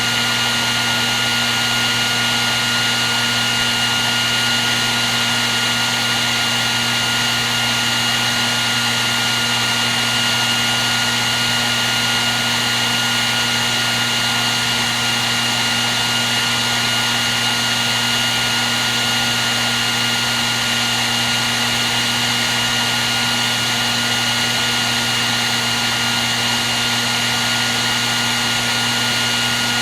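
Hair dryer running steadily without a break: an even rush of blown air with a steady motor whine in it.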